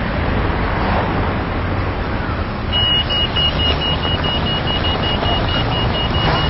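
City road traffic rumbles steadily. About three seconds in, a pedestrian crossing's audible signal starts an even run of rapid, high-pitched beeps, the sign that the lights have stopped the traffic and the crossing is open.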